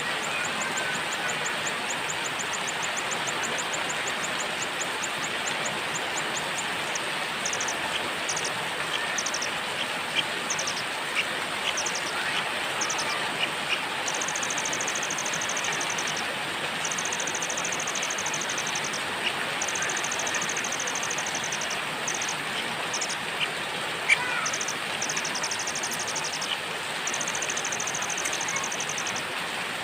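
Steady rain with a small bird's very high, rapid trills that repeat in bursts of one to two seconds.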